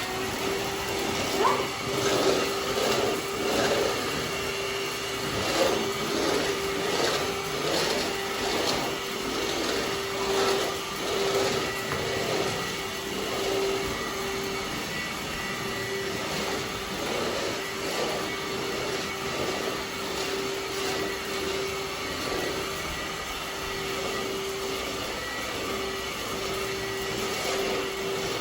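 Vacuum cleaner running with a steady, even whine. Over the first half it is joined by repeated short irregular knocks and scrapes, which then thin out.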